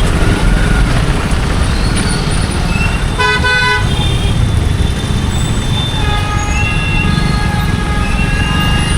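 Vehicle horns honking in a traffic jam over a steady low rumble of traffic: one short blast about three seconds in, then a longer held honk from about six seconds on, with other horns tooting faintly in between.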